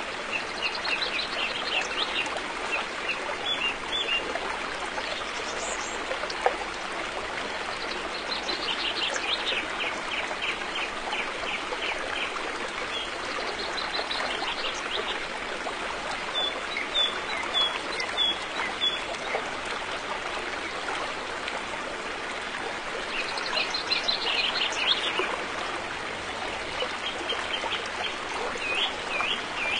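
River water flowing steadily, with birds singing over it in quick runs of repeated high notes every few seconds.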